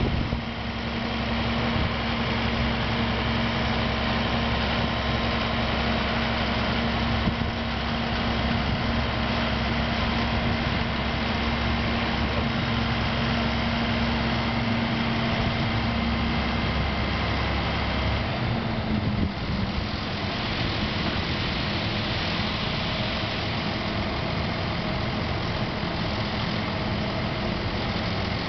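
Fendt 716 tractor's diesel engine running steadily while its hydraulics tip a trailer load of wheat. The engine note changes about two-thirds of the way through, losing its deepest tones, and a steady hiss grows after it.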